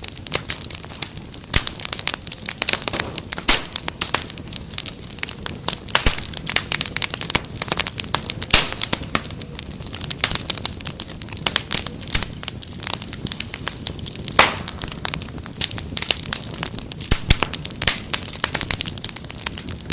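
Fire crackling in a fireplace: irregular pops and snaps, several a second, some sharper and louder than others, over a faint steady hiss.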